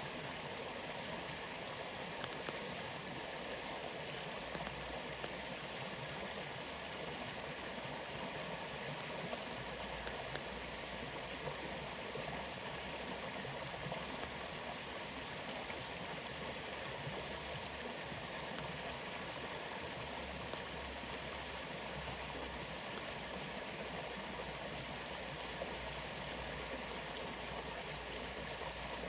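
Rainforest waterfall running with rain: a steady, even rush of falling water, broken only by occasional faint ticks.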